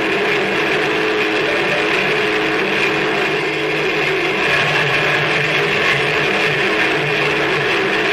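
Harsh noise music: a dense, unbroken wall of noise over steady low droning tones, with no let-up.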